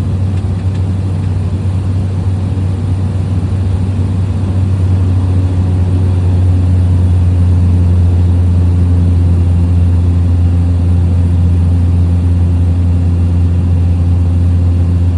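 Small propeller plane's engine and propeller droning steadily in flight, heard from inside the cabin. The drone grows a little louder about four to five seconds in.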